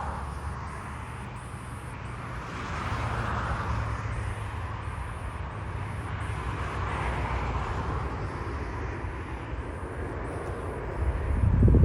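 Jet airliner's engines heard from outdoors, a steady low rumble with a hiss that swells and fades over several seconds. Wind buffets the microphone near the end.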